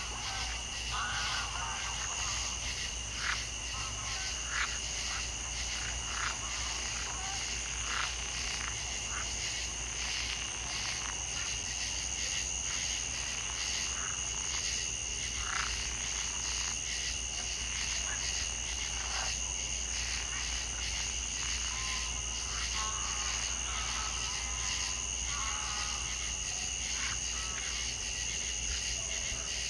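Frogs calling in short repeated pulses over a steady high-pitched whine of insects: a wild night chorus.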